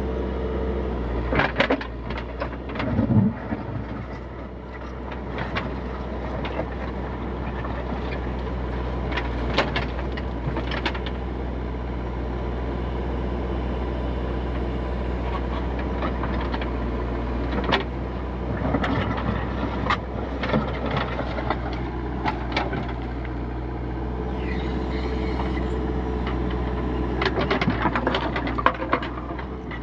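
Backhoe loader's diesel engine running steadily, with scattered metallic clanks and knocks from the digging: a cluster a couple of seconds in, a few more through the middle, and a busy run of them near the end.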